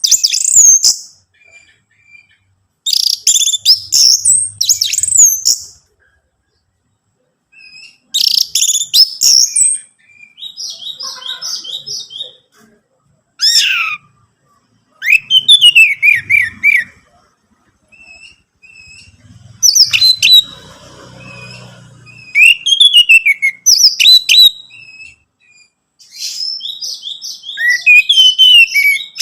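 Orange-headed thrush song: loud phrases of rapid, varied whistled notes, broken by short pauses, some of them sweeping downward.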